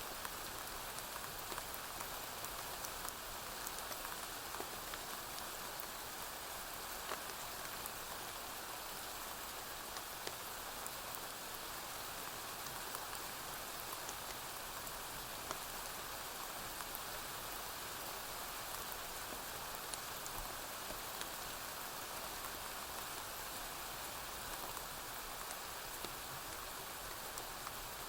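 Steady rain falling on a roof, a continuous hiss scattered with many small sharp ticks.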